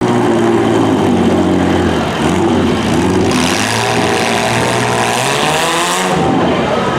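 Demolition derby car engines running and revving loud, with pitch rising and falling, and a dense rushing noise added from about three to six seconds in.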